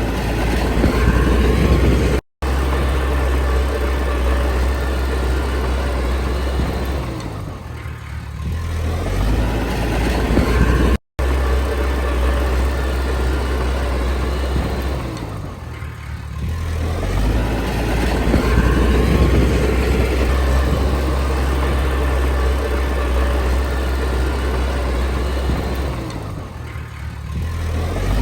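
Komatsu D20P bulldozer's diesel engine working steadily, its pitch and loudness easing off and building up again every eight to ten seconds as it pushes soil.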